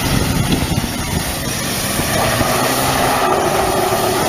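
A vehicle engine running loud and steady with a heavy rumble, and a droning tone coming in about two seconds in.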